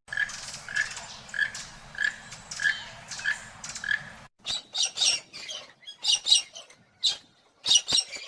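Two animal sound effects in a row: first a short call repeated about every half second over a low rumble, then a quick run of sharp, irregular bird chirps and squawks.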